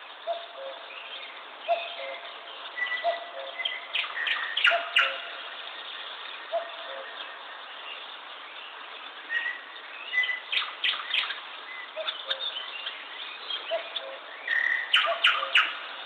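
Birds singing and calling: a low two-note call repeats every second or two, with bursts of higher, quick chirps in between.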